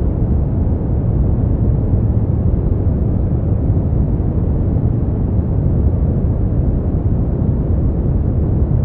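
Continuous sleep-aid noise, steady and unchanging, weighted to the low end so it sounds like a deep, even rumble, with no hiss at the top.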